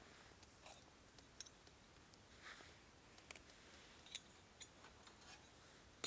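Faint, irregular small clicks and ticks, seven or eight of them, over a soft background hiss.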